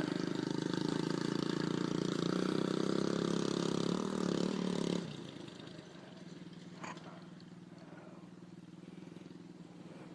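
Dirt bike engine running loudly and steadily, then dropping abruptly about five seconds in to a quieter, steady idle.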